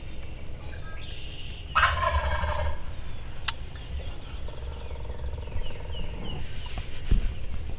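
A wild turkey tom gobbles once, loudly, about two seconds in, in a rapid rattling gobble lasting under a second. A short thump follows near the end.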